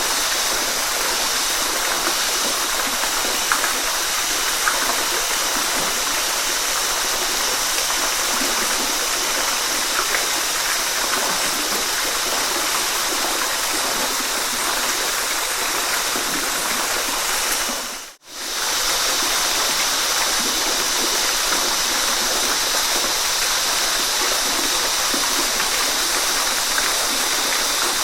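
Waterfall rushing and splashing in a steady, even wash of water noise. It dips briefly almost to silence about 18 seconds in, then comes straight back.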